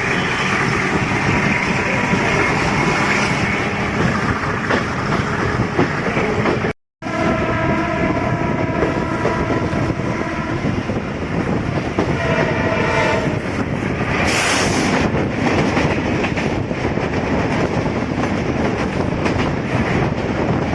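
Passenger trains running past with a steady rumble and wheel clatter on the rails. A train horn sounds for several seconds from about a third of the way in, and a brief sharp hiss follows. The sound cuts out for a moment shortly before the horn.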